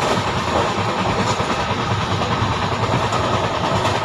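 Steady running noise of a passenger train coach in motion, heard from inside the carriage.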